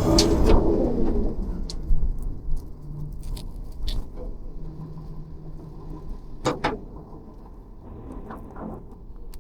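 Rear-loader garbage truck's engine and packer falling back to a low idle about half a second in, then idling with scattered metallic knocks and clanks, the loudest about two-thirds of the way through.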